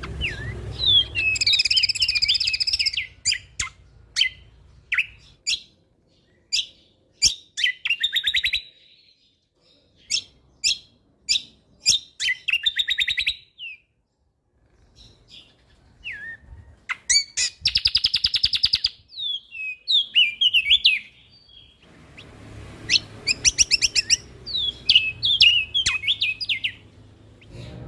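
Songbird singing a fast, varied song of sharp chirps, warbled phrases and rapid rattling trills, with short pauses between phrases.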